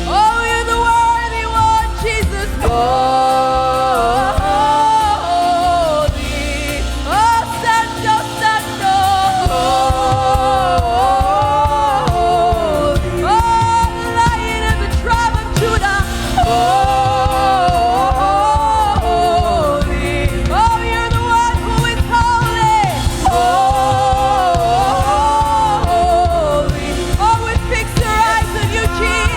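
Live worship song: a singer holds long notes with vibrato in phrases of a second or two, over a backing band.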